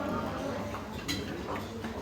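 Faint background voices over a low hum, with a few light clicks and knocks, the clearest about a second in.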